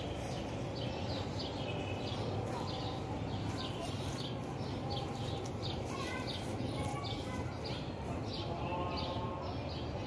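Birds chirping: a steady run of short, high, falling chirps, about two to three a second, over steady outdoor background noise.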